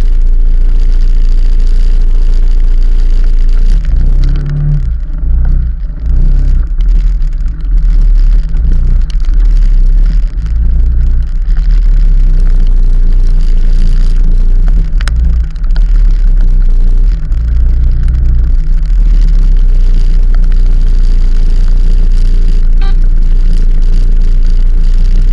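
Loud, steady low rumble of wind buffeting an action camera's microphone on a moving ride, with vehicle running noise beneath; the rumble surges several times.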